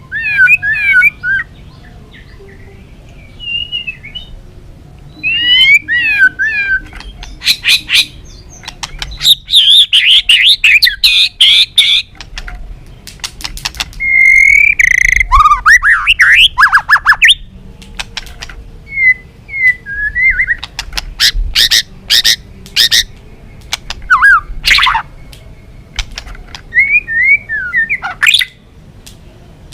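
White-rumped shama singing loudly. Its phrases of whistled notes slide up and down and are broken by fast rattling clicks and chatter, with short pauses between phrases.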